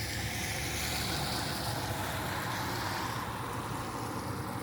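A steady low rumble with a hiss over it, easing a little past the middle: a motor vehicle.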